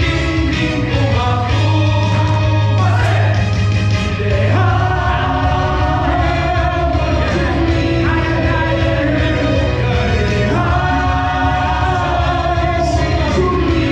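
Male voices singing a musical-theatre number together over an instrumental accompaniment track, with long held notes and a steady bass line.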